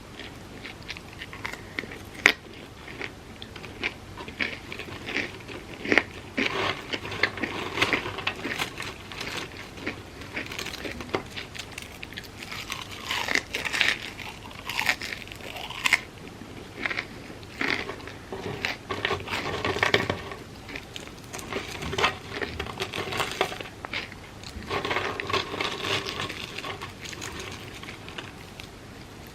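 Close-miked eating of crispy fried food: repeated crunchy bites and wet chewing, with sharp crackles scattered throughout.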